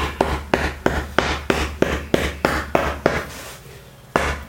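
Hammer tapping staples down into a reupholstered boat seat, quick light blows about three a second, with a pause of about a second near the end before the tapping resumes.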